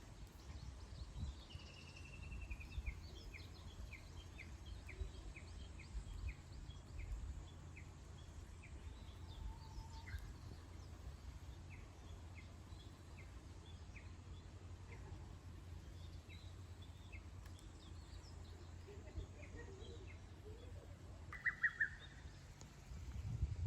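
Small birds chirping: one bird repeats short high chirps about twice a second for much of the time, and a brief fast trill comes near the end. A steady low rumble of background noise runs underneath.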